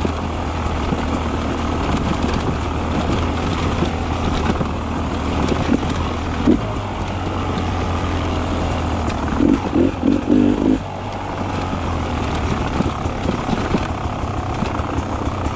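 Beta 300 RR two-stroke enduro motorcycle engine running steadily while riding single track, with a short cluster of thumps about ten seconds in.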